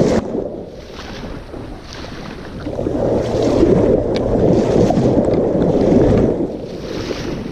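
River water splashing and churning, with wind on the microphone, loudest for a few seconds in the middle.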